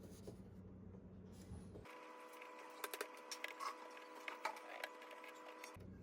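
Faint clicks and crackles of duct tape being handled and wrapped, over a steady hum. About two seconds in, the low hum gives way to a higher steady tone.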